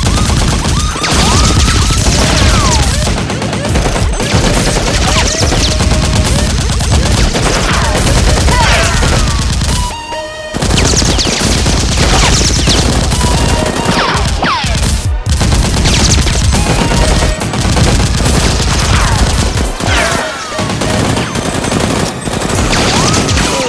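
Dense, rapid automatic gunfire sound effects, with repeated falling whistles like passing bullets, and a brief lull about ten seconds in.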